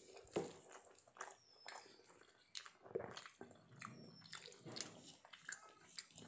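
Faint close-up chewing and mouth sounds of someone eating a handful of rice mixed with curry, with irregular small smacks and clicks.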